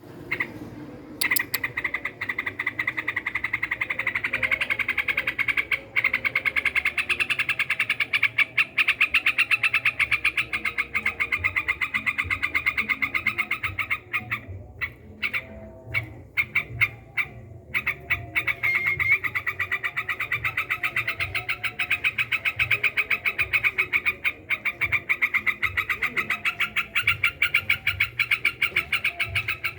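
A rapid, continuous trill of fast even pulses. It goes on steadily for over ten seconds, breaks into a few scattered pulses for several seconds, then picks up again.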